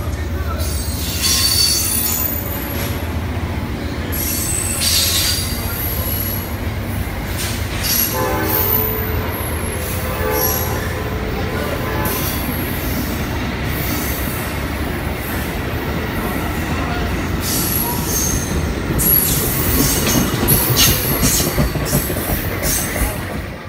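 Amtrak passenger train's stainless-steel cars rolling past close by as the train pulls out, with a steady rumble of wheels on rail and high wheel squeal that comes and goes.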